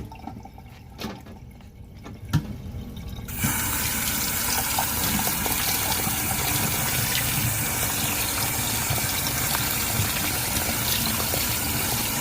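A few light knocks, then about three seconds in a kitchen tap comes on and water runs steadily over rice in a sieve, rinsing it.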